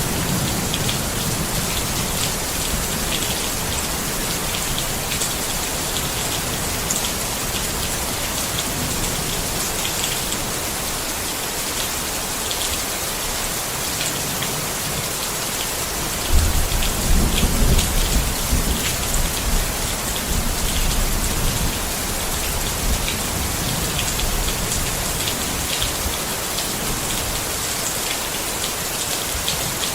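Steady rain pattering on a tent, an even hiss with fine drop ticks. About halfway through, a low rumble comes in suddenly and fades away over a few seconds.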